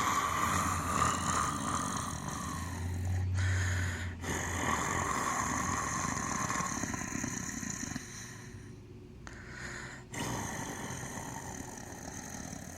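A person imitating a tiger's growl with their own voice: long drawn-out growls broken by a few short pauses.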